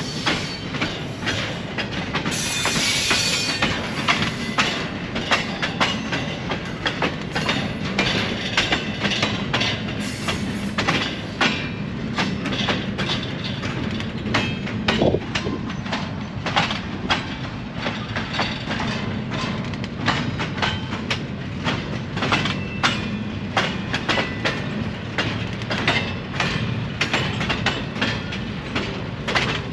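Train rolling past, with a steady rumble and a dense run of wheel clicks over the rail joints. There is a short high hiss about two to three seconds in.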